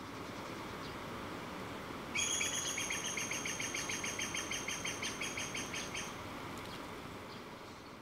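A bird's fast trill of repeated high notes, about eight a second, starting about two seconds in and lasting about four seconds, over a steady outdoor hiss.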